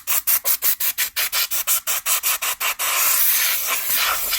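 Compressed air duster spraying in rapid short bursts, about six a second, then held as a steady loud hiss from about three seconds in, blowing dust out of a PS4's heatsink and cooling fan.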